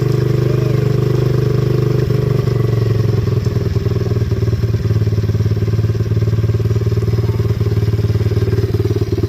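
Baja 50 pit bike's small single-cylinder engine running at a steady idle, its pitch settling slightly lower about two and a half seconds in.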